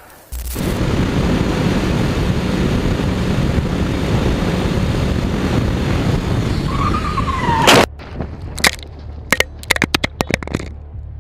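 Loud, steady rush of a motorcycle riding at speed with wind on the microphone, with a short squeal that then cuts off abruptly. After it comes a string of sharp cracks and scrapes.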